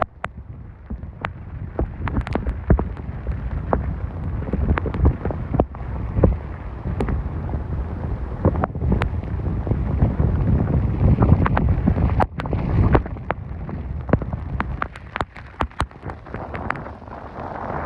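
Hurricane-band wind buffeting the microphone in gusts, with heavy rain and many scattered sharp taps; the rumble swells strongest past the middle, then eases near the end.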